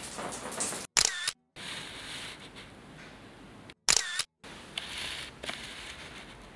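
Camera shutter clicks, twice, about three seconds apart, each a short loud snap followed by a moment of dead silence, with a faint steady hiss between them.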